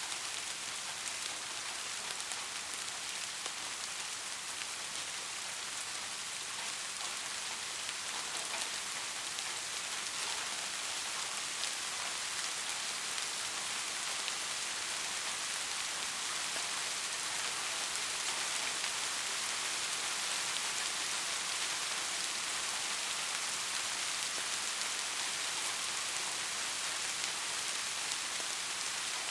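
Steady rain falling, an even hiss with a fine patter of individual drops, growing a little louder over the stretch.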